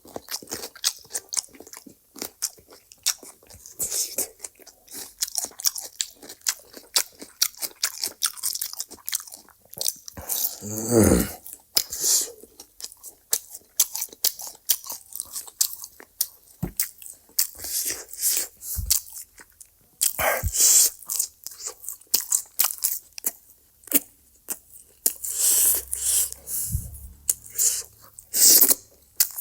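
Close-miked chewing and biting of food: a dense run of wet mouth clicks and crunches, with a louder, longer burst about eleven seconds in and a few more around twenty and twenty-eight seconds.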